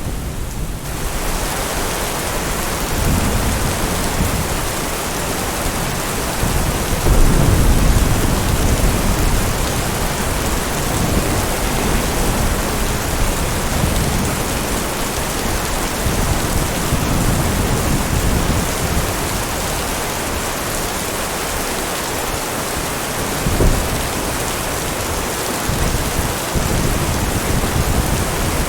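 Steady heavy rain falling, with low rolls of thunder rumbling underneath that swell and fade several times, the loudest about seven seconds in.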